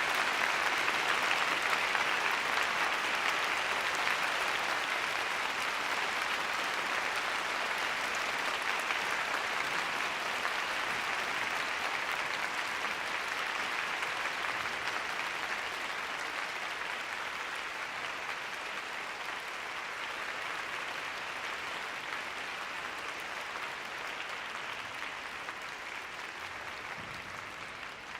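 Large arena audience applauding, a dense steady clatter of clapping that slowly fades.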